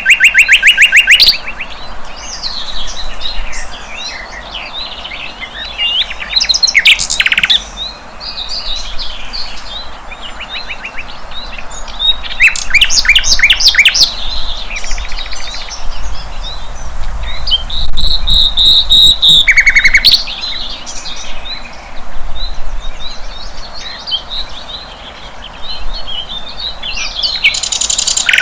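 Song of the flycatcher known in Indonesian bird-keeping as sikatan londo: a varied run of chirps and whistles broken by loud, rapid trills near the start, about 7 and 13 seconds in, around 18 to 20 seconds, and again at the end.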